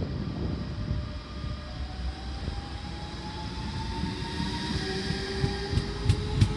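DB class 425 electric multiple unit running with a low rumble, its traction drive whining in tones that slowly rise in pitch as the train gathers speed. A few sharp clicks come near the end.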